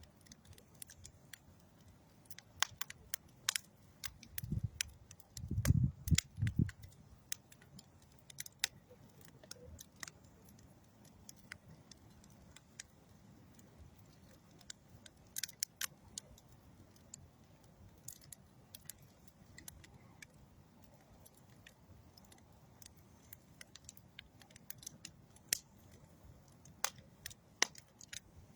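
Wood fire of old railroad ties and dead tree wood crackling, with irregular sharp pops and snaps throughout. A short run of louder low rumbling thumps comes about five seconds in.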